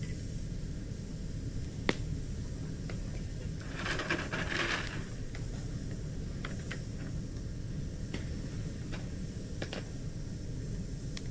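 Wood campfire crackling: scattered sharp pops, the loudest about two seconds in, and a brief rush of hiss about four seconds in, over a steady low rumble.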